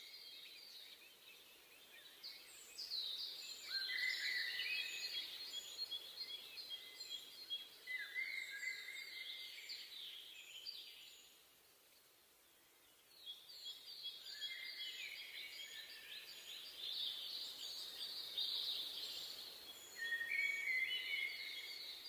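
Several songbirds singing together in a forest, their chirps and trills overlapping over a faint background hiss, with a short lull about halfway through before the song picks up again.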